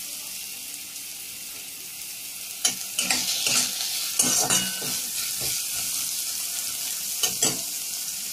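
Chopped carrots sizzling in hot oil in a kadai, stirred, with short scraping knocks against the pan about three to five seconds in and twice more near the end.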